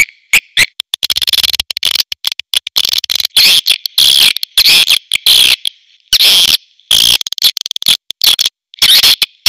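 Swiftlet calls: a chorus of rapid, high, buzzy chirping twitters, starting as a few short separate chirps and running into dense chattering trains with brief breaks. This is the call sound used to attract swiftlets to a nesting house.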